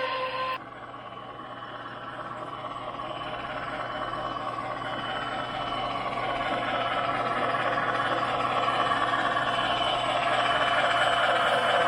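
Model train running with its electronic sound, growing steadily louder; a steady whistle-like tone cuts off about half a second in.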